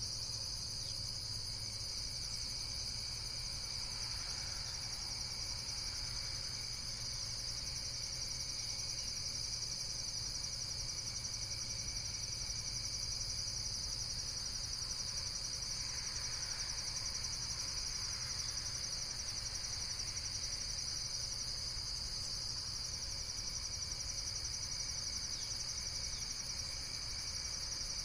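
Insect chorus: a continuous high-pitched trilling that holds steady throughout.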